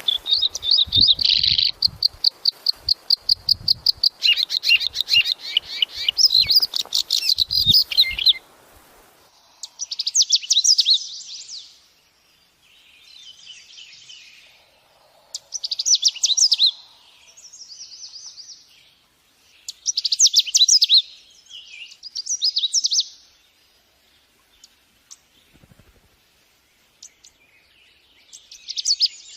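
A songbird singing: about eight seconds of rapid, continuous high twittering with a few low knocks underneath, then separate short song phrases with pauses between them.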